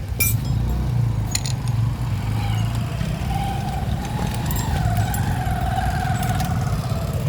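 Steady low rumble of road traffic with a few sharp metallic clinks in the first second and a half, and a wavering high tone from about two seconds in almost to the end.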